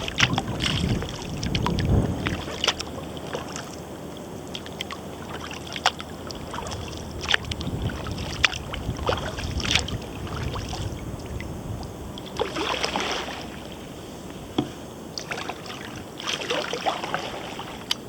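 Kayak paddle strokes: the blades dipping and swishing through the water, with drips and small splashes and now and then a light knock. There is some low wind rumble on the microphone in the first few seconds.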